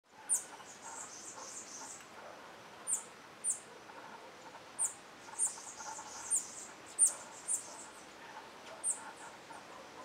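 Small birds calling at a fruit feeder: about ten short, very high, thin call notes that fall slightly in pitch, scattered irregularly, the loudest about seven seconds in, over soft background twittering.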